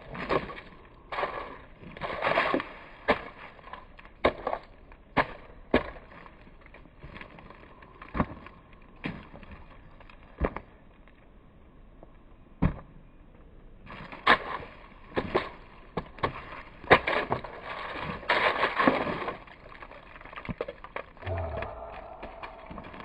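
Irregular sharp knocks and clatters, some in quick runs, with rustling between them and a quieter stretch in the middle.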